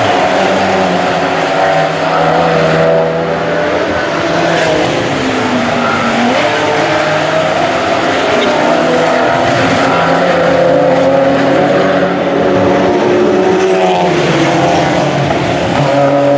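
Several race car engines running hard and overlapping, their pitches rising and falling through gear changes as cars pass.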